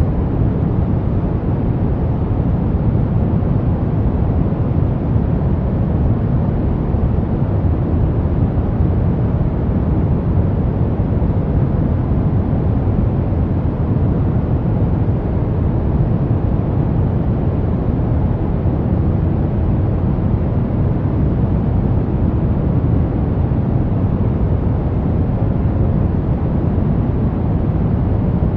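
Continuous brown noise: a steady, deep rumbling hiss with most of its energy in the low end, unchanging throughout.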